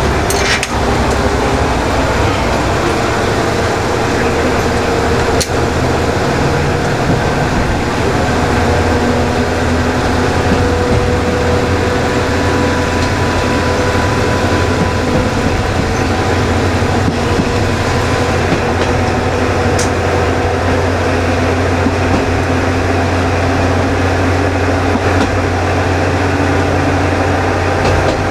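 Inside a KiHa 20 diesel railcar under way: its DMH17 diesel engine running steadily with wheel and rail noise, a constant low hum under a few steady mid-pitched tones. A few sharp clicks stand out along the way.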